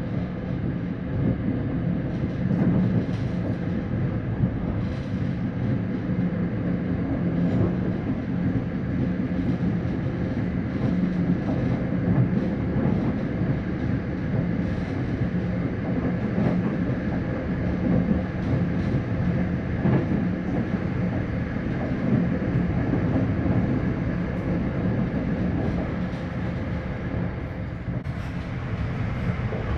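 Passenger train running along the track, heard from inside the carriage: a steady low rumble of wheels and running gear with faint scattered clicks.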